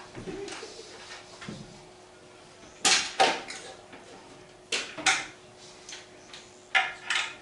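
Sharp knocks coming in pairs, three times: about three seconds in, about five seconds in and near the end, each pair about a third of a second apart.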